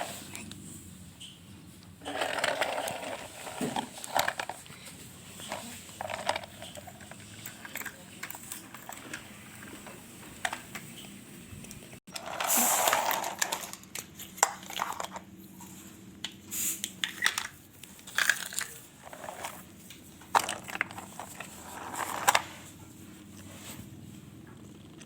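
Irregular clicks, small knocks and crinkling handling sounds, with short rustling bursts about two seconds in and again near the middle.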